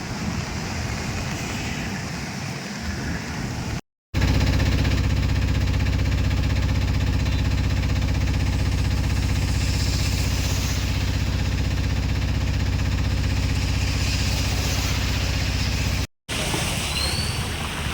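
A motor vehicle's engine running steadily at close range, a constant low hum, between two hard cuts. Before and after it there is a noisy stretch of outdoor traffic sound.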